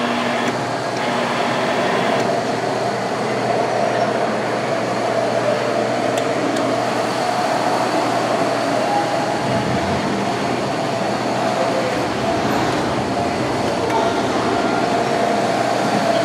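Train in motion: a steady rolling rail noise with a constant tone running through it.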